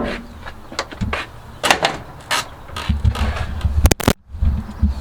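Handling and unpacking noise: a run of sharp clicks, knocks and rustles as a delivered box is opened, with low rumbling on the microphone in the second half and a brief cut-out about four seconds in.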